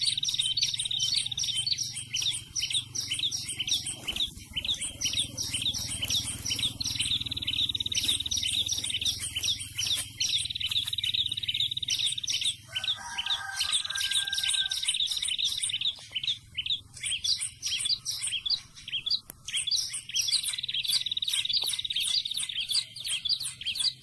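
Prenjak (prinia) calls: rapid, continuous bursts of high chirps repeated many times a second, the 'ngeplong' call used as a lure for trapping prinias.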